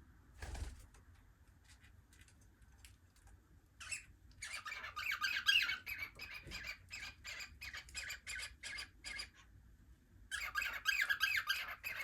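Cockatiels squawking in two loud bouts, with a run of short repeated calls, about four a second, in between.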